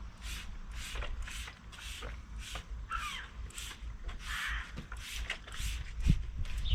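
Hand trigger sprayer misting vinyl and rubber dressing over the engine, a short hiss with each squeeze, about two or three a second.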